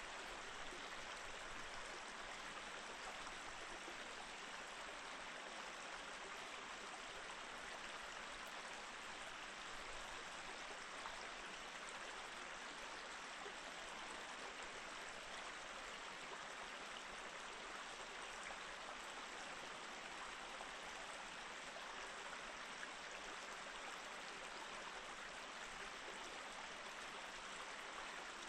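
Mountain stream running steadily over rocks, a constant, even babble of moving water.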